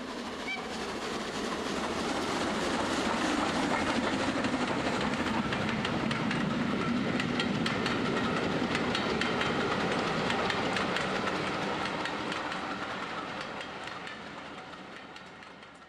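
A train running on rails with the clickety-clack of its wheels, growing louder over the first few seconds, then fading away near the end.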